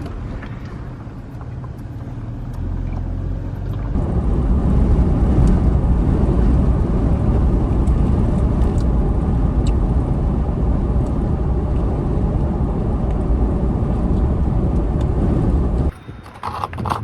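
Steady rumble of a vehicle driving, road and engine noise heavy in the low end. It comes in sharply about four seconds in and cuts off abruptly near the end.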